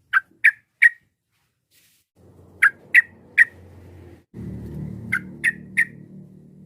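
Sooty-headed bulbul calling in three quick runs of three short, sharp notes each, about a third of a second apart. A low rumble comes in behind the calls about two seconds in and grows louder around the middle.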